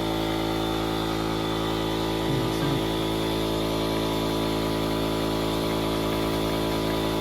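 A motor running steadily, a constant hum made of many even tones. A brief voice is heard about two seconds in.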